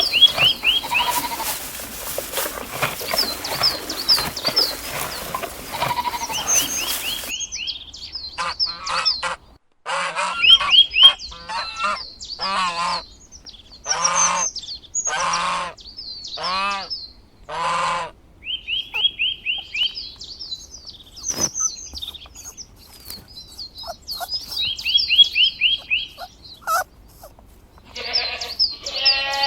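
Geese honking in a run of loud calls through the middle, with small birds chirping in quick repeated runs before and after.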